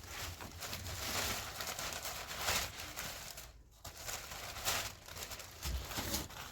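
Rustling and crinkling handling noise in uneven strokes, with a short pause about three and a half seconds in.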